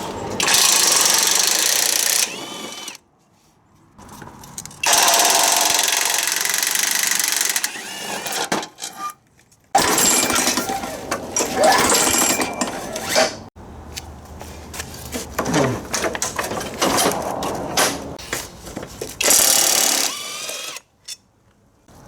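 A hand-held power tool run in several bursts of one to three seconds, with clattering of metal parts and tools between them.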